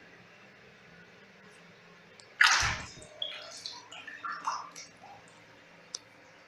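Water in a filled bathtub: one loud splash about two and a half seconds in, followed by a couple of seconds of smaller sloshes and drips.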